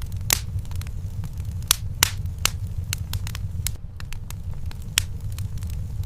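Wood fire burning in a fireplace: crackling with several sharp pops, the loudest near the start, around the middle and near the end, over a steady low rumble.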